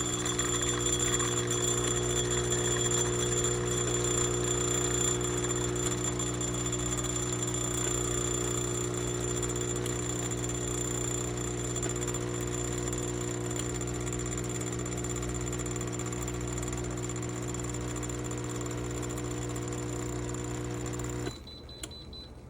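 Laekerrt 20-bar espresso machine's pump running with a steady buzz and hiss, then cutting off suddenly near the end.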